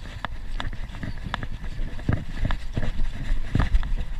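Bird Aeris AM9 mountain bike being ridden up a climb: low wind rumble on the microphone with irregular clicks and knocks from the bike over rough ground.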